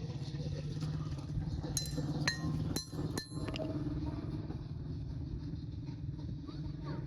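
Four sharp, ringing metal clinks about half a second apart, beginning about two seconds in: metal hoof-care tools striking metal. A steady low rumble runs underneath.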